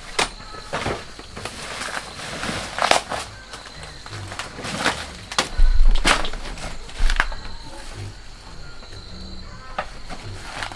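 Irregular snaps, crunches and rustles, about a dozen, with a faint steady high-pitched tone behind them.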